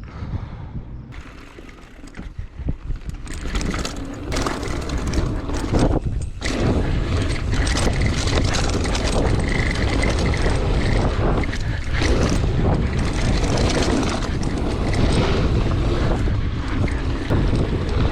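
Wind buffeting an onboard camera's microphone, mixed with the rattle and knocks of a mountain bike riding down a dirt trail. It gets louder from about three seconds in and then stays steady.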